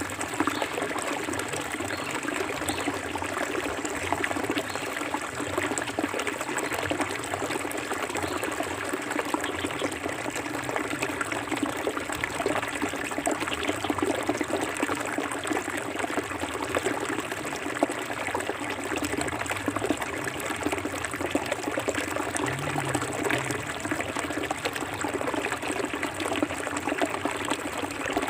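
Forest river flowing steadily: an even rush of water dense with small splashes and trickles, with no pauses.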